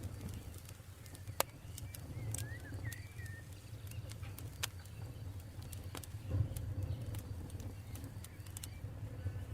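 Campfire burning with a steady low rumble and scattered sharp crackles and pops, the loudest about six seconds in. A bird twitters briefly about two to three seconds in.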